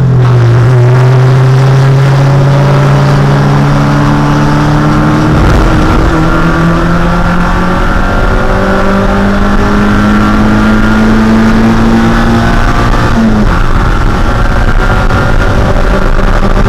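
Mazda Miata's 1.6-liter four-cylinder race engine running hard at high revs from inside the car, its pitch slowly climbing. The pitch drops briefly near the end.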